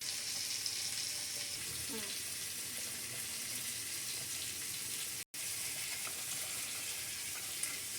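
Water running steadily from a kitchen tap, a constant hiss that cuts out for a moment about five seconds in.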